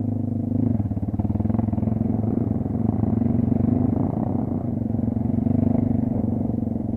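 Kayo off-road motorcycle engine running at low, fairly steady revs, the pitch dipping and rising slightly.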